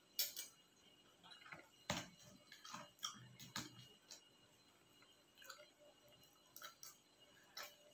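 Faint close-up eating sounds: a person chewing, with about ten short clicks and crunches scattered irregularly.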